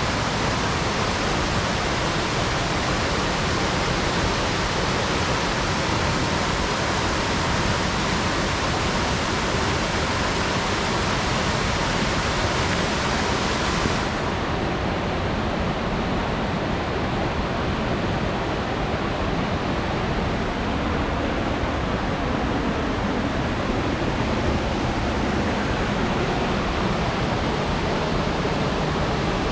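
Steady loud rush of falling water from a mountain-gorge waterfall. About halfway through, the hiss becomes a little duller.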